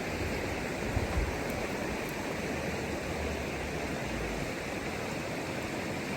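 Steady rush of river water flowing, with a couple of low bumps about a second in.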